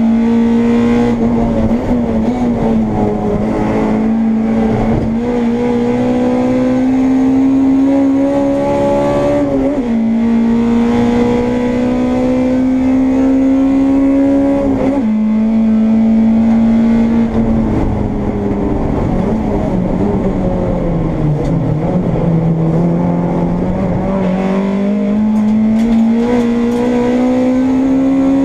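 Honda Integra race car engine at high revs, heard from inside the car. The note climbs steadily and drops sharply at upshifts about every five seconds, then sinks lower about two-thirds of the way through as the car slows for a corner, and climbs again towards the end.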